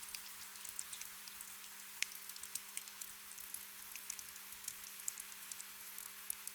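Gentle rain: a steady soft hiss with many small drops ticking irregularly. A faint steady low hum runs underneath.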